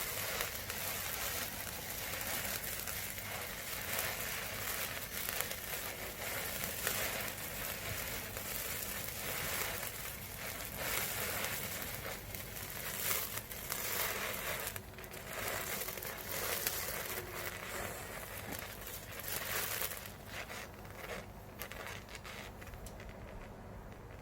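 Several small indoor fireworks burning at once, giving a dense fizzing crackle with many small pops, which thins out and quietens over the last few seconds.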